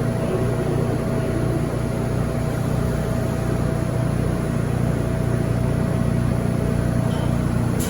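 New York City subway train running, heard from inside the car: a steady rumble of wheels and running gear with a faint steady whine above it. A brief click comes near the end.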